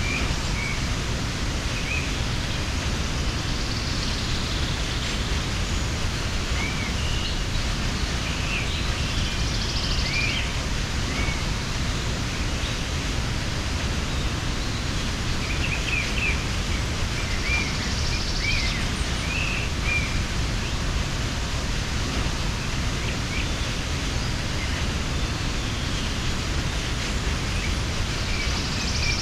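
Waterfall pouring steadily into its pool, a constant even rush of water, with small birds chirping in short scattered calls over it.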